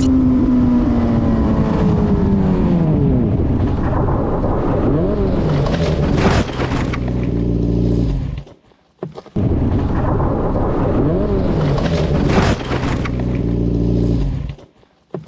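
Loud motor vehicle engine noise whose pitch falls at first, with a brief rise and fall in pitch and then a sharp bang; after a short break the same passage is heard again.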